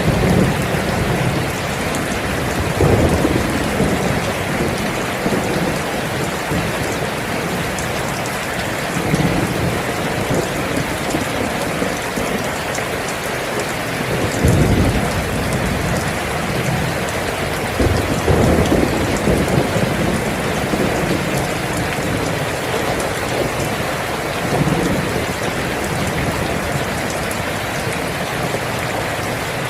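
Steady heavy rain falling, with low rumbles of thunder swelling up several times, the strongest about three, fourteen and eighteen seconds in.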